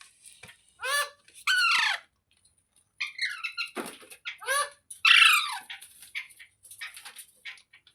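Rose-ringed parakeet (Indian ringneck) giving a series of shrill calls, several sliding down in pitch, the loudest about five seconds in, followed by quick short chirps toward the end.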